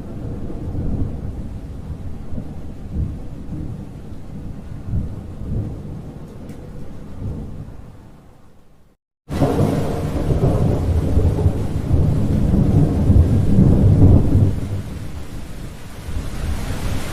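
Thunder rolling and dying away, then, after a sudden break of silence about nine seconds in, steady heavy rain with a long, louder roll of thunder that peaks a few seconds later and eases off.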